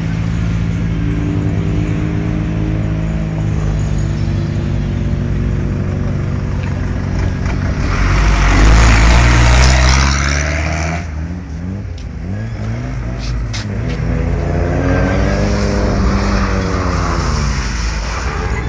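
Tuned Tofaş Şahin car's engine revving hard, its pitch rising and falling as the car is spun in donuts. A loud burst of tyre noise from skidding tyres lasts about three seconds midway.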